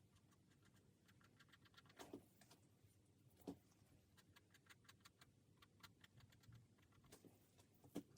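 Near silence with faint, scattered taps and clicks of a paintbrush dabbing acrylic paint on a canvas, a few a little louder about two, three and a half and eight seconds in.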